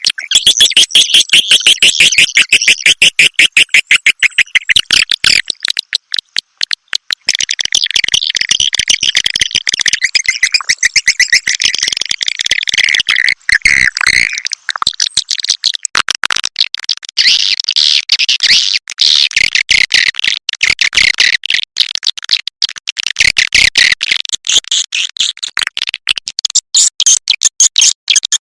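Swiftlet calls played as a lure: fast, high-pitched twittering and chattering in a dense, unbroken stream. It is the kind of recording broadcast from a swiftlet house to draw swiftlets in to roost and nest.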